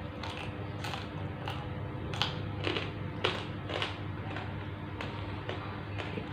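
Close-up eating sounds: a person chewing, with short, sharp mouth clicks and crunches about twice a second over a steady low hum.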